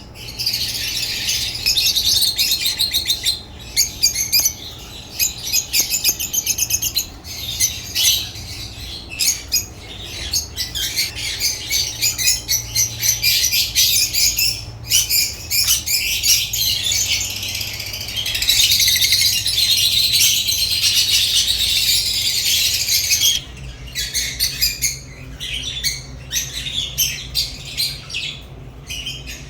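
African lovebirds chirping in rapid, continuous high-pitched chatter, with a few brief pauses and a long unbroken stretch about two-thirds of the way through.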